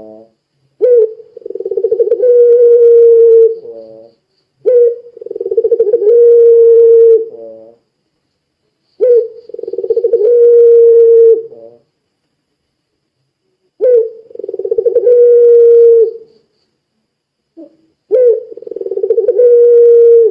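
Puter pelung dove cooing, five long calls in a row. Each starts with a short sharp note and a quavering build, then holds a long steady note that ends in a few falling, stepped notes.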